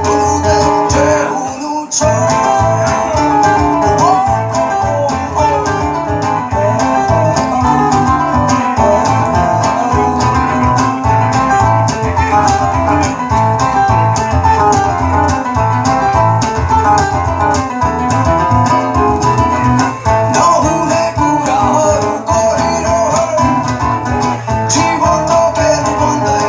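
Live rock band playing a song: guitars over a steady drum beat, with singing, and a brief break in the music about two seconds in.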